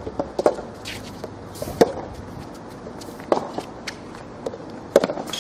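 Soft tennis ball struck back and forth in a rally: four sharp hits about a second and a half apart.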